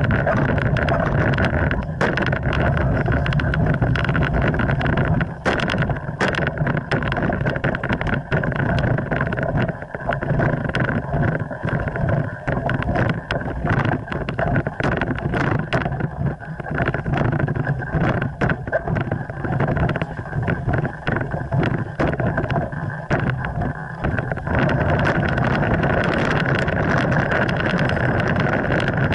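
Steady wind rumble on the microphone with many irregular knocks and rustles.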